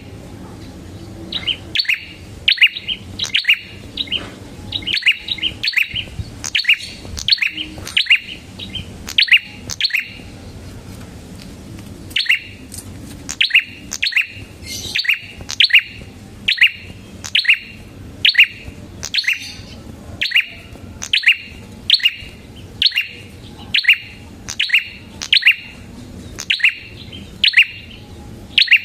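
Prenjak kepala merah (a prinia) calling: loud, sharp chirps repeated about one or two a second, with a short pause about ten seconds in.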